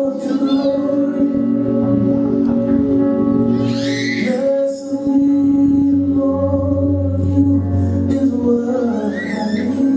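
Church music: voices singing over held, sustained chords.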